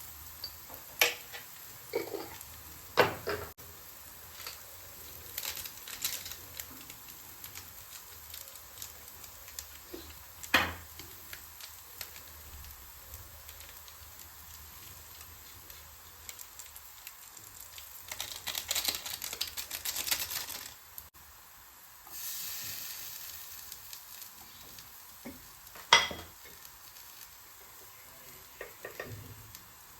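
Food frying in a pan, with a utensil stirring and knocking against the pan now and then. The sizzle swells twice in the second half.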